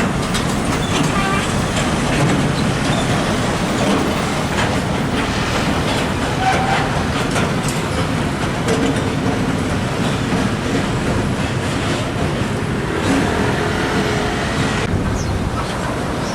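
Heavy trucks and other road traffic passing: a steady, loud rumble of diesel engines and tyres on the road.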